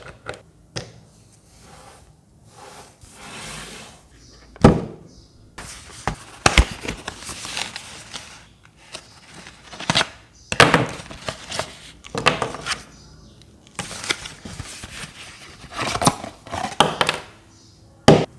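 Hands handling a small plastic mist humidifier and its packaging: irregular knocks and clicks of plastic parts between bouts of rustling, with a sharp knock about five seconds in.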